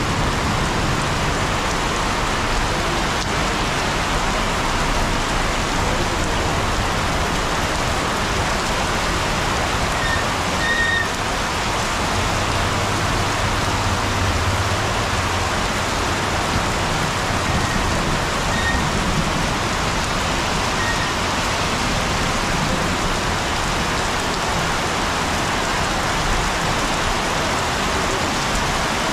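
Heavy rain falling steadily on wet, puddled ground.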